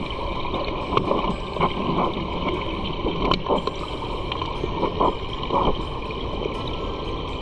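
Stream water rushing steadily, with short sharper splashes now and then.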